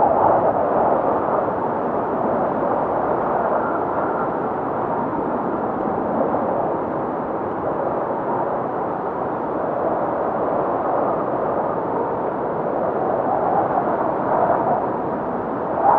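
Strong blizzard wind blowing steadily, swelling in gusts near the start and again near the end.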